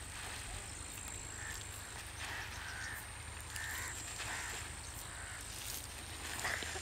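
Birds calling, short separate calls scattered a second or so apart, over a faint steady high-pitched hiss.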